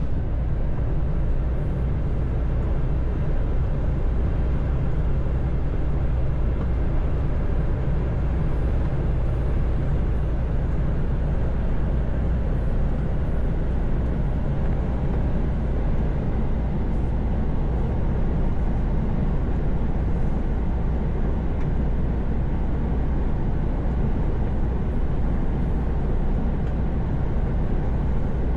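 Heavy truck cruising on a motorway: a steady low engine drone under even tyre and road noise.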